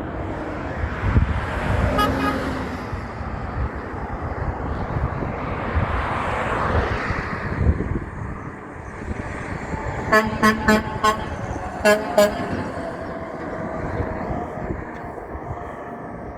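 Truck horn honked in short blasts, four quick ones and then two more, the loudest sounds here, over steady road traffic with a vehicle passing by. A single brief toot comes about two seconds in.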